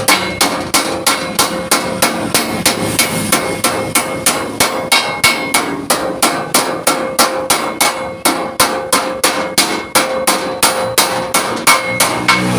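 Hammer beating thick steel sheet plate in a steady, even run of blows, about three to four a second, the plate ringing between strikes as it is shaped into a cover panel.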